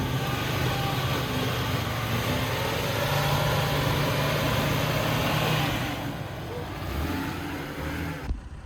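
Off-road vehicle engine revving under load as it climbs a rocky ledge, its note rising about three seconds in and easing off about six seconds in, with a broad rushing noise over it.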